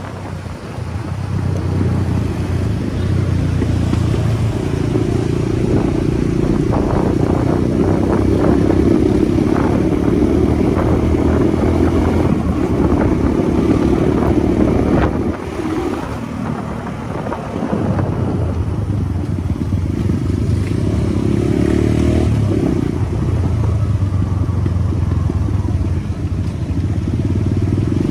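Motorcycle engine running on the move, building up in the first couple of seconds, easing off for about two seconds past the middle, then pulling steadily again.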